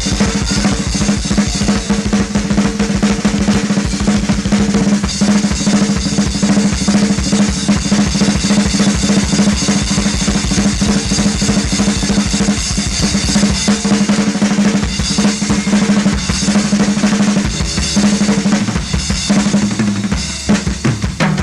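Drum kit solo: fast, dense strokes on snare and bass drum with rolls and cymbals, over a steady low tone.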